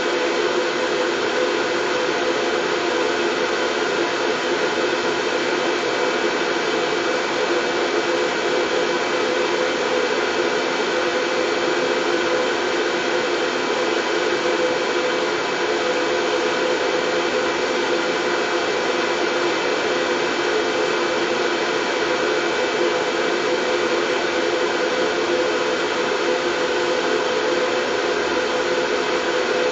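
Steady, unchanging white noise, a whooshing hiss with faint steady hums mixed in, like a running motor-driven appliance, that does not change from start to end.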